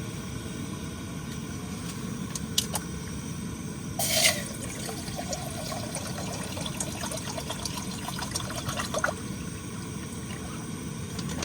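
Water trickling and pouring into a pot, over the steady rumble of a gas flame. There is a short splash-like burst about four seconds in, and light clicks and knocks of cookware.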